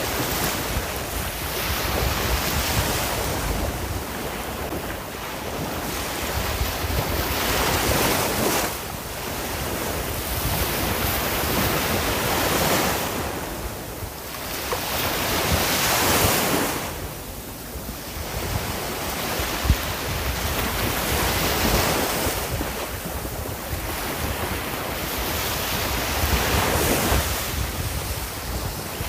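Sea waves breaking and washing on a shore, swelling and ebbing every few seconds, with wind rumbling on the microphone.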